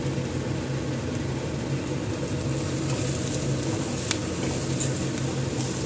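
Onion and spice masala sizzling steadily in a stainless steel kadai as it is stirred with a steel spatula, with a couple of faint clicks of the spatula against the pan.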